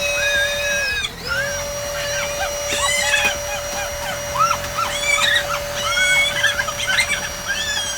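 Electric air blower running steadily as it inflates a giant rubber balloon, its pitch dipping briefly about a second in and then recovering. Many short high-pitched squeaks and squeals sound over it.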